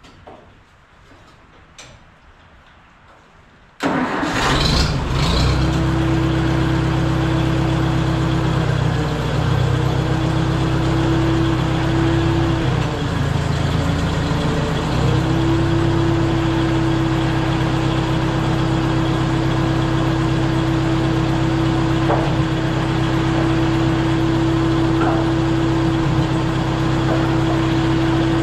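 Case 310 bulldozer engine starting about four seconds in, then running steadily, its speed dipping and wavering for a few seconds before settling back.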